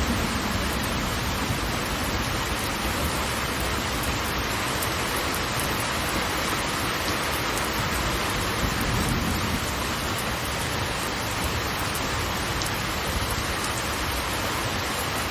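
Steady rushing of water falling from a large waterfall: an even hiss over a deep low rumble, unchanging throughout.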